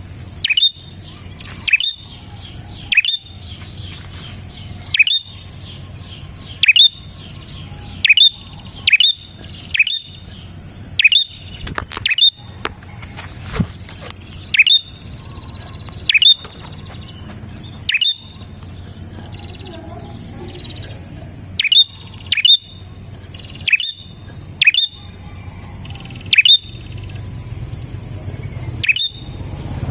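Prenjak, the Indonesian name for small prinias and tailorbirds, calling loudly in short, sharp, chirping notes that each sweep quickly down in pitch. The notes repeat about once a second, sometimes in quick pairs, with a couple of brief pauses. A faint steady high-pitched hiss runs underneath.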